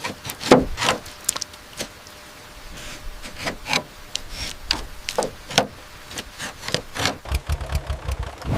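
A run of irregular knocks and clicks, then about seven seconds in a low pulsing rumble starts: an old tractor engine being turned over.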